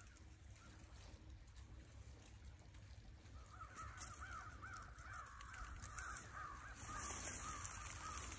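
Faint bird calls: a quick run of rising-and-falling calls, several a second, starting about three seconds in, over a steady low rumble.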